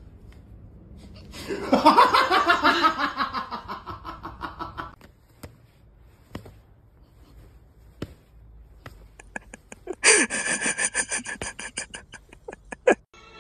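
A person laughing hard in two bursts. The first runs from about one and a half seconds to five seconds in, falling in pitch; the second, higher one comes about ten seconds in. A few sharp clicks fall between the bursts.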